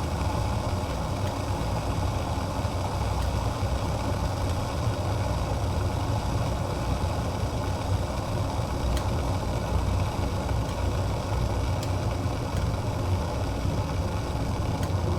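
Water boiling in a pot: a steady, continuous bubbling rumble that holds at one level throughout.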